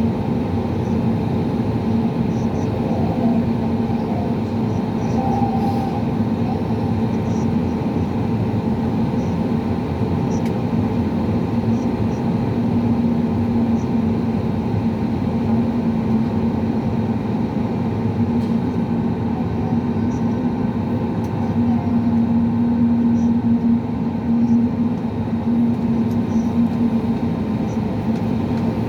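Steady engine hum and rumble inside the cabin of an Airbus A320neo taxiing before takeoff, with a low steady tone that grows a little louder about three quarters of the way through.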